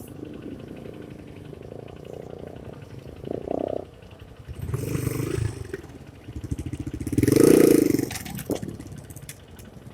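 Honda CRF150 dirt bike's single-cylinder four-stroke engine running at low speed, revved briefly three times, the loudest rev about seven and a half seconds in.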